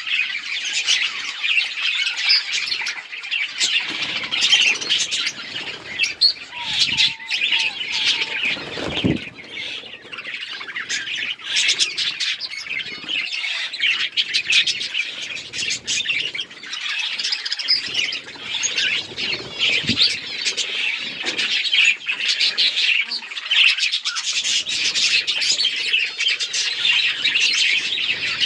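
A flock of budgerigars chirping and chattering continuously, many birds at once, with a few low thumps about four to nine seconds in.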